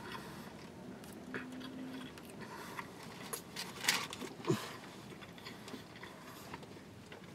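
A person chewing a mouthful of breakfast sandwich (English muffin, sausage, egg and cheese), with small wet mouth clicks and smacks and a short closed-mouth hum about a second and a half in.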